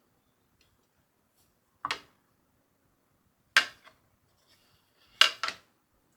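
A few sharp clacks of hard kitchen items being handled and set down: single knocks about two seconds and three and a half seconds in, then a quick double knock near the end.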